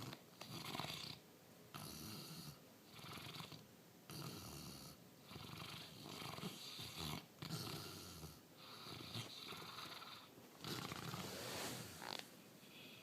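A sleeping Bernese–Labrador mix dog snoring: a steady rhythm of noisy, rasping breaths, each a second or two long with short pauses between.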